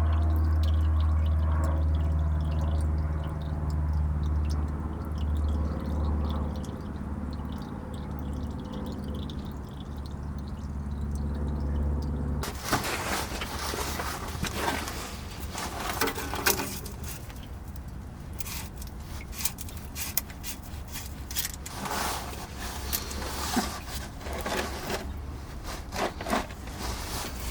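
Engine oil from a 7.3 Powerstroke diesel's oil pan pouring in a steady stream into a drain pan, with a low ringing hum. About twelve seconds in this stops suddenly, and scattered clicks and knocks follow.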